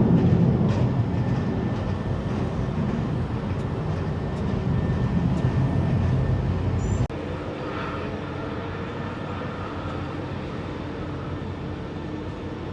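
Jet engine noise: a loud, low rumble from a Boeing 747-400F freighter, then an abrupt cut about seven seconds in to quieter, steadier jet noise with faint held tones from an Airbus A321.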